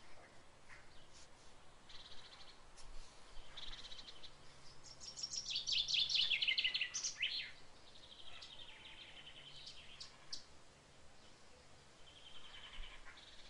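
Birds chirping and singing, with short repeated high chirps throughout and a louder rapid trill falling in pitch about five to seven seconds in.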